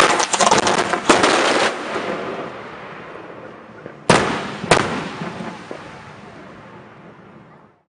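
Fireworks going off: a fast crackle of bangs for the first couple of seconds that dies away in a long echoing tail, then two more loud bangs about half a second apart that also fade before the sound cuts off.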